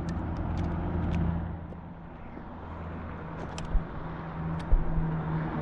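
Steady low mechanical hum, with a few light clicks and two dull knocks about four and five seconds in.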